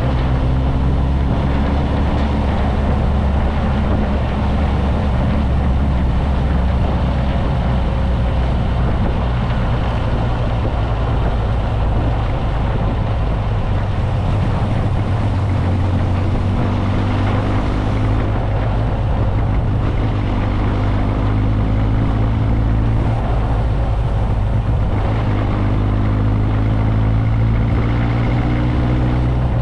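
Motorcycle engine running while riding, under a steady rush of noise. The engine note rises several times as it accelerates.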